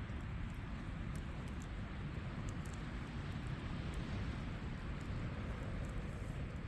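Seaside campfire crackling, with scattered small sharp pops over a steady low rumble.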